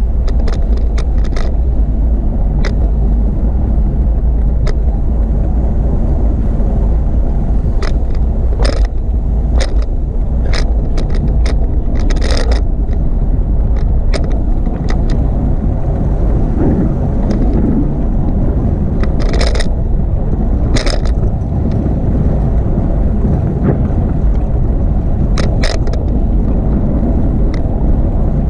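Wind buffeting the microphone of a camera on a moving bicycle, with steady tyre and road noise underneath. Sharp clicks and rattles from the bike come through now and then, in small clusters about 12, 19, 21 and 26 seconds in.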